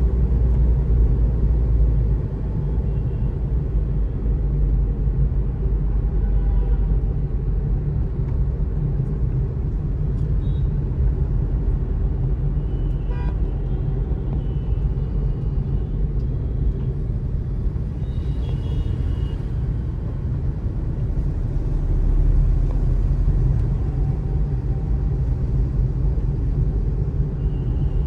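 Steady rumble of road and traffic noise from a moving vehicle in city traffic, with short car-horn toots now and then, clustered around the middle and near the end.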